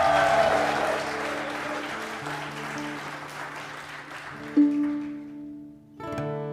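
Audience applause fading away over about five seconds while instruments hold a few soft, steady notes. A single louder note comes in about four and a half seconds in, and acoustic guitar strumming starts near the end.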